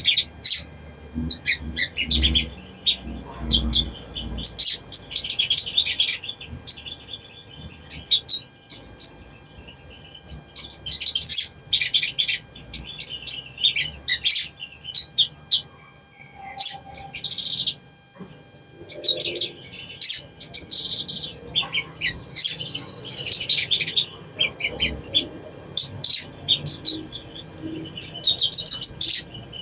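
A sogon (sogok ontong) songbird singing fast, high-pitched chirps and trills in repeated bursts with short pauses between them.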